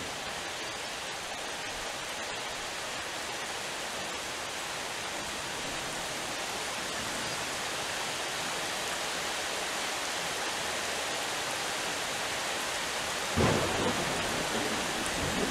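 Heavy rain pouring steadily. A sudden, louder low rumble comes near the end.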